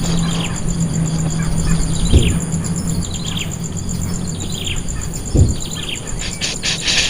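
Bird chirping: short, falling chirps repeated every second or so. Two low thumps fall in the middle and a fast, insect-like ticking starts near the end.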